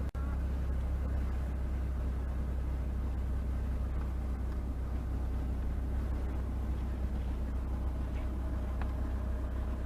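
Steady low rumble of a car driving, engine and road noise, with a momentary drop-out just after the start.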